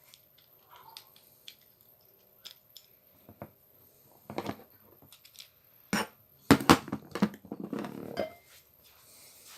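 Small metal parts of an angle grinder clinking and knocking as they are handled and fitted together, with scattered light clicks at first and a louder run of knocks and scraping in the second half.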